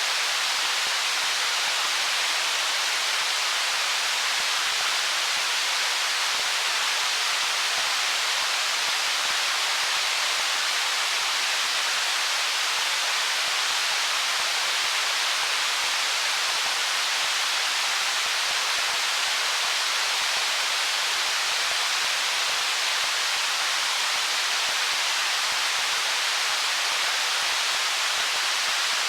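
Stream flowing over stones: a steady, even rush of water with no single splash standing out.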